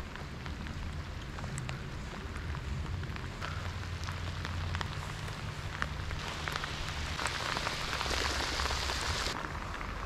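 Heavy rain falling on the lake surface, a steady hiss of drops with many small ticks from individual drops; it grows heavier about six seconds in and eases again just after nine seconds.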